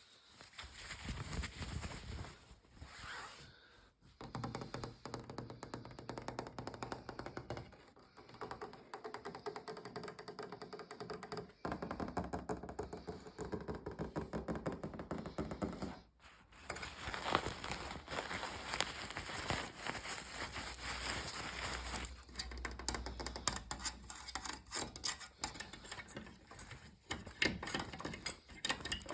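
Fast tapping and light scraping on different objects, in short sections that change every few seconds with brief breaks between them.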